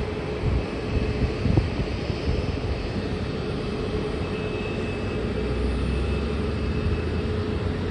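Jet airliner engines at the airport running steadily: a steady whine over a low rumble that grows stronger about five seconds in.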